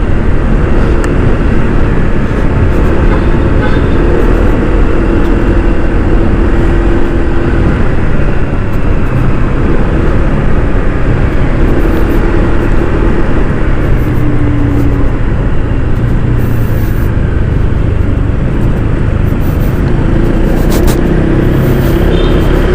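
Honda ADV 160 scooter riding on the road: steady wind noise on the microphone over the scooter's engine and tyre noise, with the engine's hum rising and falling now and then.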